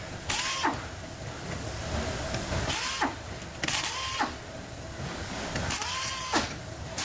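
A small power tool's electric motor running in about four short bursts, each spinning up quickly to speed and then cutting off, as fasteners are worked off a dynamo.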